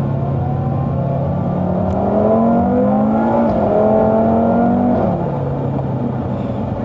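Car engine accelerating hard, its pitch rising steadily for about four seconds before easing back to a steady low drone.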